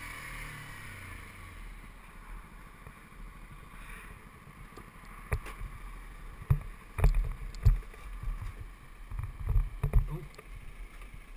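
Yamaha WR125's single-cylinder four-stroke engine note falling away as the bike slows to a stop in the first couple of seconds. From about five seconds in, scattered low thumps and knocks, the loudest near the end.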